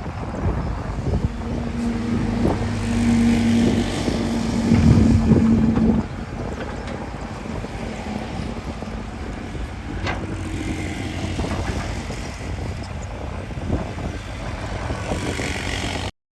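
Diesel engine of a heavy earthmoving machine working, a steady pitched drone that is loudest for the first few seconds and then drops abruptly to a quieter rumble. A few sharp knocks come through.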